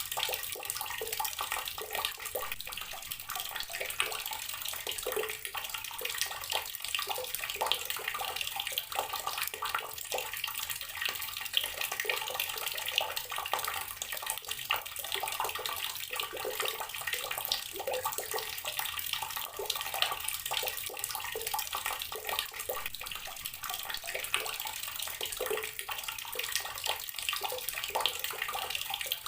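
Water running steadily from an outdoor tap and splashing down, a constant splashing patter with no break.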